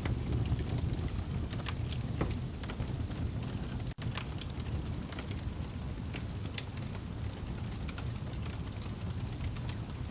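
Fire crackling with scattered sharp pops over a steady rumble and hiss of rain; the sound cuts out for an instant about four seconds in.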